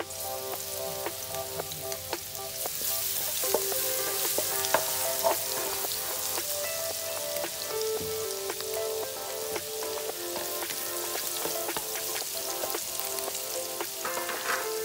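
Chopped garlic sizzling in hot oil in a wok. The hiss jumps up about two and a half seconds in as the garlic goes in, then holds steady, with scattered clicks of a utensil stirring against the wok.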